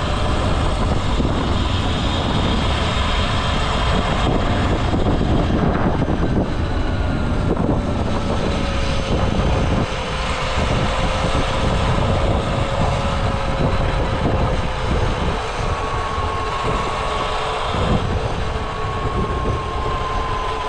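Motor bike being ridden along a trail. Its motor holds a steady whine that drifts slowly up and down in pitch with speed, over a heavy rumble of wind and ground on the microphone.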